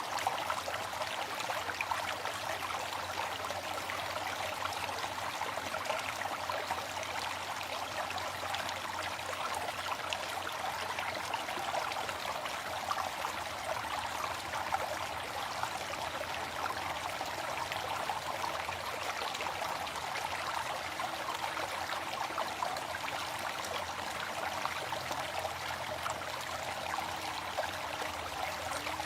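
Waterfall: water falling and splashing in a steady, unbroken rush, mostly hissy splashing with little low rumble.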